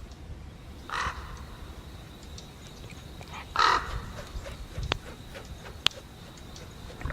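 Two short, harsh bird calls, one about a second in and a louder one a few seconds later, followed by a couple of sharp clicks.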